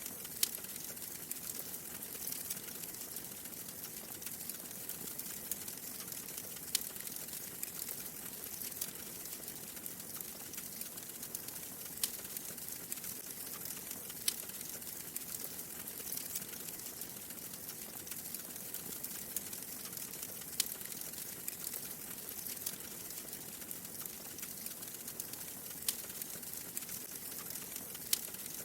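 Wood fire crackling in a fireplace: a steady hiss of small crackles with a sharp pop every few seconds.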